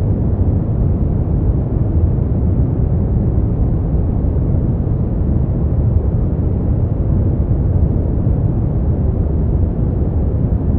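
Continuous generated noise from a sleep-aid track, steady and unchanging. Its weight sits in a deep rumble, with only a little hiss on top.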